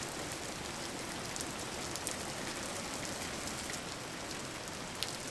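Steady rain falling, an even hiss with scattered drop ticks, one slightly sharper about five seconds in.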